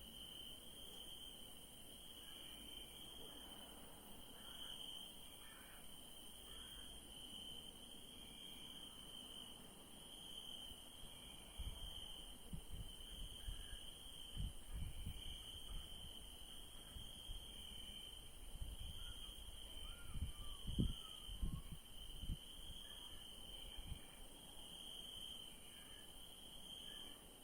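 Crickets chirping in a steady night chorus: one high trill that swells and fades in even pulses, over a fainter, higher hiss of insects. Through the middle stretch comes a run of low, dull thumps and rumbles, the loudest sounds heard.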